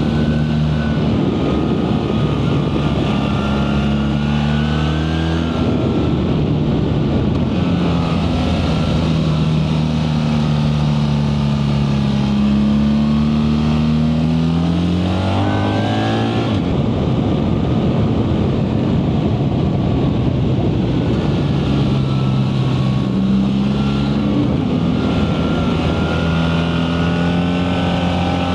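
BMW R 1300 GS's 1300 cc boxer twin running hard under a rider: the engine note climbs under acceleration, then drops suddenly at gear changes or as the throttle is closed for bends, several times over, with wind noise underneath.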